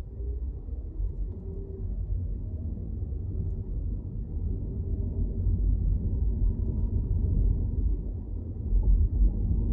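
Low, steady rumble of a car being driven: engine and tyre noise, swelling a little near the end.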